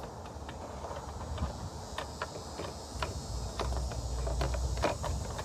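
Scattered light clicks and taps of a plastic car headlight assembly being handled and worked loose, with a low rumble from about three seconds in.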